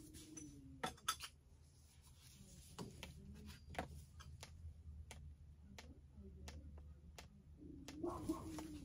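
Faint, scattered clicks and light taps of tools and parts being handled, over a low steady hum.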